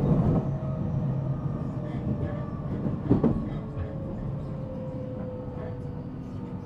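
Running noise inside a JR Central 313 series electric train's motor car (MoHa 313-7): a steady low rumble of wheels on rail with a thin motor tone slowly falling in pitch as the train slows. Two sharp knocks come through, one at the start and one about three seconds in.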